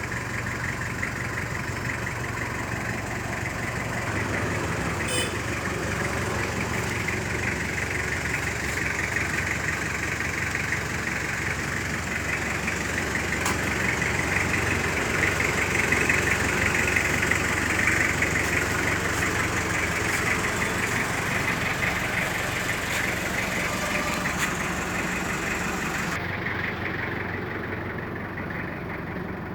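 Toyota Qualis GST's 2.4-litre 2L-II diesel engine idling steadily, growing somewhat louder around the middle and easing off again.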